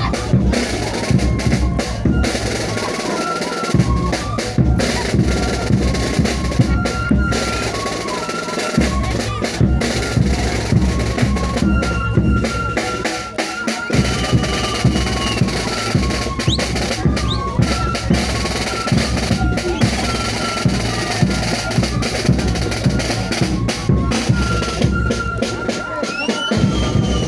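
Live band music: drums, including bass drum and snare, beating steadily under a high melody of held notes that step from one pitch to the next.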